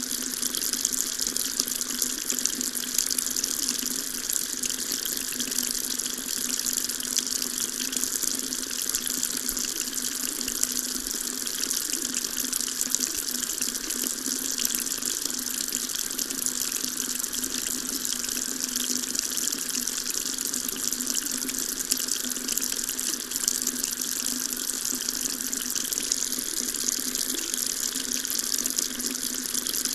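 Water running steadily from a tap, a continuous splashing hiss with no change.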